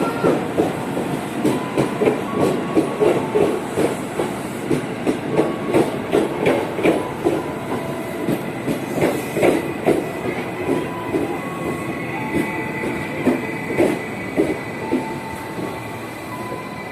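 Commuter electric train running on the rails, its wheels clacking over rail joints at about two beats a second. The clacks slow and grow fainter through the second half, with thin wheel-squeal tones over them.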